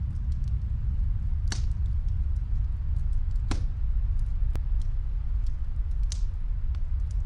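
Snowstorm wind as a steady low rumble, with a wood fire crackling and snapping over it and three louder pops spread through.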